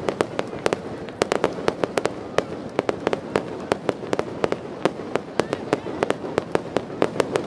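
Fireworks going off in a rapid, irregular series of sharp bangs, several a second.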